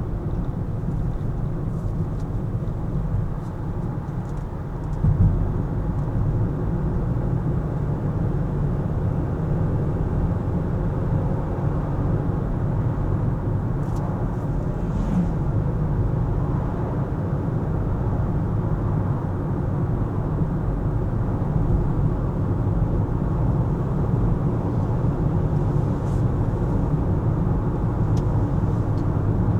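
Car driving in city traffic: steady low rumble of engine and tyre noise, with a brief thump about five seconds in.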